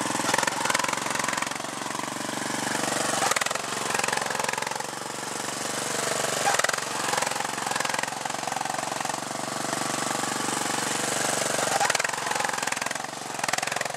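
Riding lawn tractor's small engine running steadily and close by, with a rough, rapid pulse.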